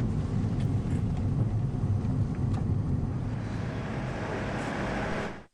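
Steady road and engine noise of a vehicle driving on the highway, a dense low rumble with hiss above it, which cuts off suddenly near the end.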